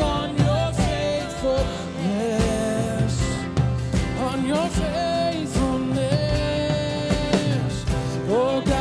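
Live worship band playing a song, with a sung or hummed melody over steady chords and a regular drum beat.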